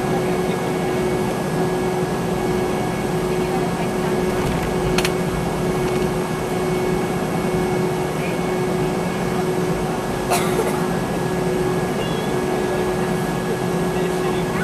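Steady cabin drone inside a Boeing 717-200, heard from a rear window seat, with a fixed whine tone running through it. Two brief clicks, about five seconds in and again about ten seconds in.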